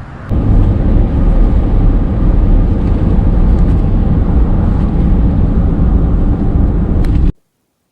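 Loud, steady rumble of a moving vehicle, with road and wind noise, ending abruptly a little past seven seconds in.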